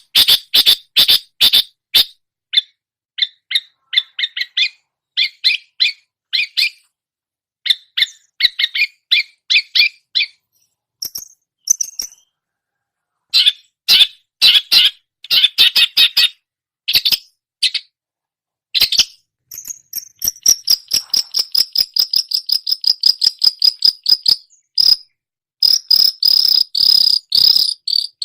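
Long-tailed shrike (cendet) singing in quick series of short, sharp chirps, with a fast, high, even trill from about 20 seconds in. This is mimicry of other songbirds.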